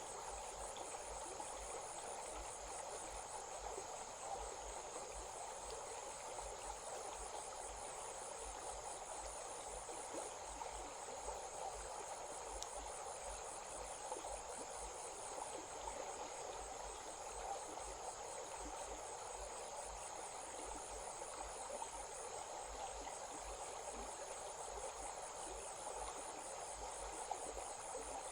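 A stream running steadily, under a continuous high chorus of insects trilling in a fast, even pulse.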